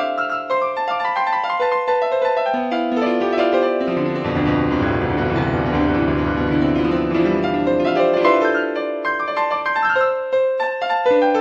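Solo piano music: a run of quick notes, with deeper, sustained chords from about four seconds in to about eight seconds in.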